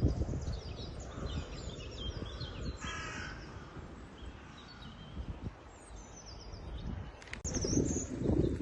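A crow caws once, a harsh call of about half a second, roughly three seconds in, while small birds chirp high and thin throughout.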